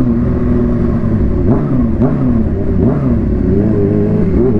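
Supercharged Kawasaki Ninja H2 inline-four through a Vandemon exhaust, pulling on the road; the engine note dips and climbs again several times in the middle, then rises steadily near the end. Wind buffets the microphone.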